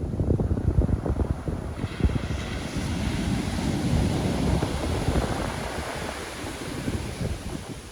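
Pacific Ocean surf: a wave breaks about two seconds in and its hissing wash swells and then fades. Wind buffets the microphone with a low rumble throughout.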